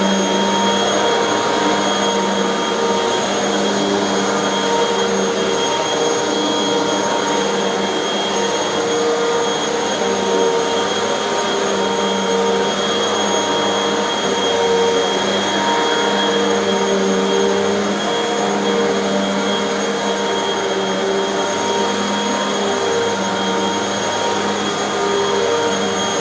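Inexpensive bagless Hoover upright vacuum cleaner running on carpet: a steady motor whine and airflow rush that barely changes.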